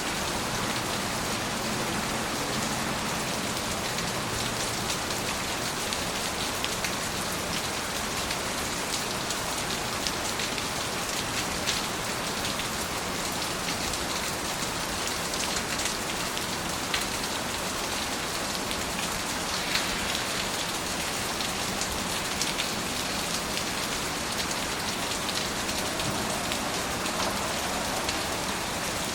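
Steady rain falling, with many separate drops ticking sharply against a surface over an even hiss.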